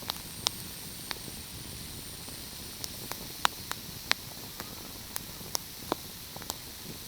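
Wood fire crackling: sharp, irregular pops and snaps, about a dozen, over a steady hiss, with a thin high whine in the first few seconds.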